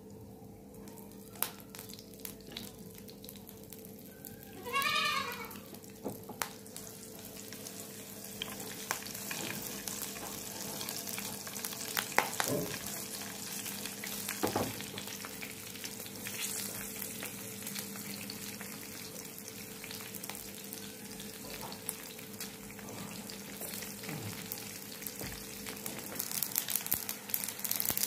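Green chillies and mustard seeds sizzling in hot oil in a frying pan, with scattered crackling pops as the mustard seeds splutter; the sizzle thickens after a few seconds. A brief wavering high-pitched sound comes about five seconds in.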